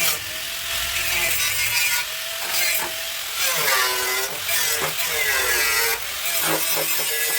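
Handheld power tool running against car bodywork, its pitch sagging and recovering twice as it is pressed into the work.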